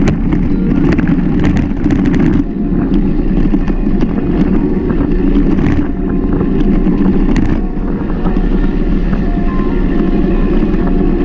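Wind rumbling on the microphone of a mountain bike rider's camera while riding a dirt trail, with a burst of clattering rattles from the bike over rough ground in the first couple of seconds and a few more rattles later.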